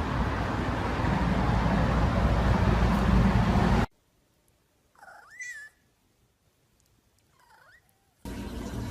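A cat meowing twice: a louder call about five seconds in that rises and then falls, and a shorter, fainter one two seconds later. Before them is a loud, steady noise that cuts off abruptly.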